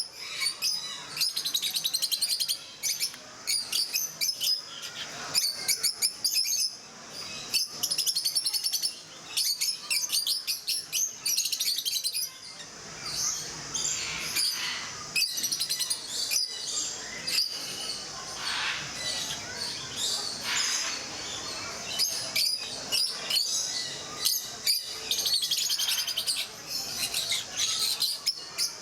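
A flock of rosy-faced lovebirds chirping: rapid runs of shrill, high chirps that keep going, with some lower calls mixed in during the second half.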